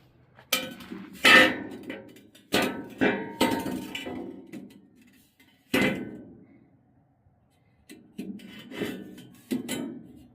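Cut pieces of steel clanking and ringing as they are handled and set down against each other, a string of separate knocks in uneven clusters with a brief pause in the middle.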